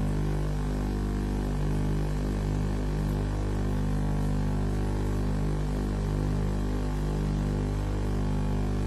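Steady electrical hum with a stack of buzzing overtones and a hiss above it, unchanging throughout.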